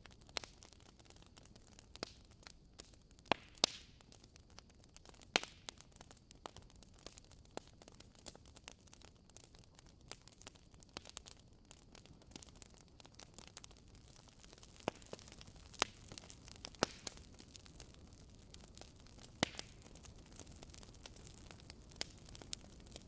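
Wood fire in a fireplace crackling: a soft hiss with irregular sharp pops and snaps from the burning logs, a few louder than the rest.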